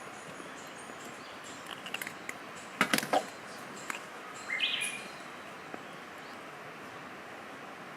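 A short bird call over a steady outdoor hiss, with a quick cluster of sharp clicks just before it.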